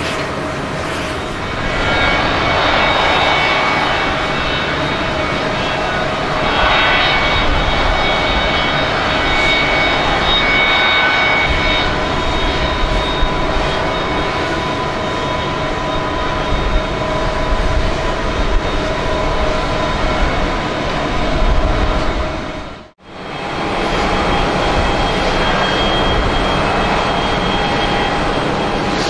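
Boeing 737-200's Pratt & Whitney JT8D turbofan engines running: a loud, steady jet noise with several whining tones over it, swelling a couple of times early on. About two-thirds of the way through, the sound cuts out abruptly for a moment, then the engine noise resumes.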